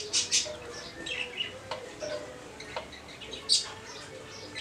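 Birds chirping: short, high chirps repeated several times, the loudest about three and a half seconds in.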